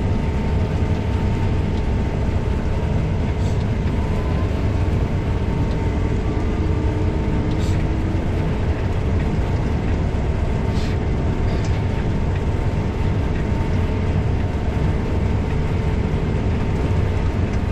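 Case IH 7230 combine harvester running steadily while harvesting corn: a continuous low engine and threshing drone with a steady whine over it and a few faint ticks.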